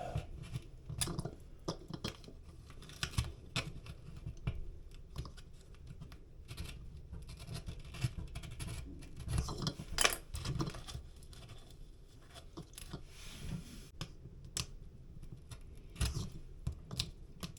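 A blade cutting and scraping at damaged drywall, tearing away loose paper facing: irregular short scratches and small clicks.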